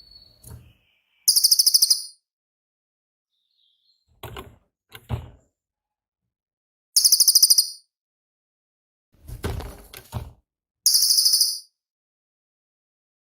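Cililin songbird singing: three loud, very high, rapid rattling trills of under a second each, a few seconds apart, with quieter knocks and rustles between them.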